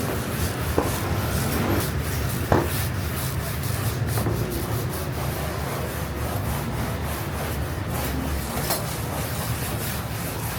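Steady rubbing, with two short knocks near the start, the louder about two and a half seconds in.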